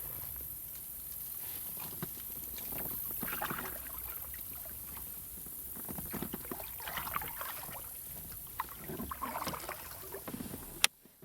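Water splashing and lapping around a kayak in irregular bursts over a steady background, with one sharp click near the end.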